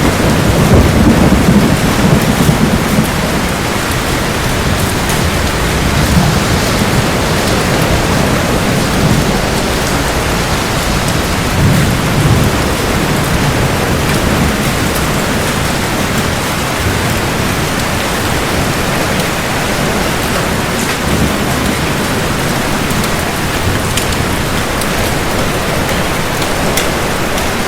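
Heavy rain falling steadily in a thunderstorm, with low rolls of thunder rumbling in the first few seconds and again about twelve seconds in.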